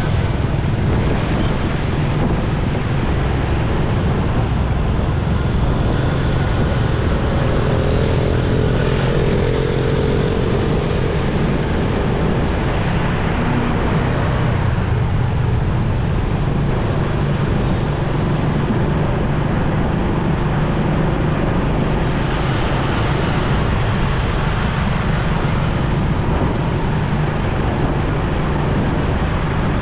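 Motorcycle riding in road traffic: a steady rush of wind and road noise with the bike's engine and passing vehicles beneath it, and a faint wavering engine tone from another vehicle briefly about a third of the way in.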